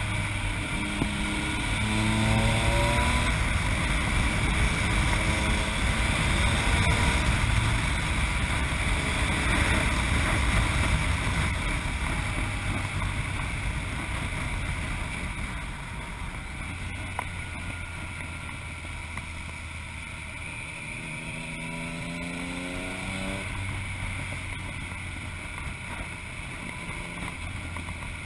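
Yamaha MT-09 motorcycle's inline-three engine through an Akrapovic exhaust while riding: revs climb through the gears in the first few seconds, the engine runs harder for a stretch, then eases and quietens before revving up again near the end. Wind rushes over the microphone throughout.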